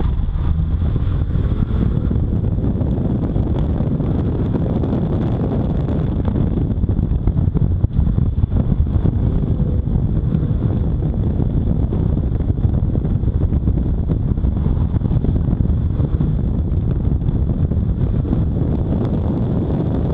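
Chevrolet Cobalt SS sedan being driven hard on an autocross course, its engine running under load as the car speeds up and slows through the turns, heard through heavy wind buffeting on an outside-mounted microphone.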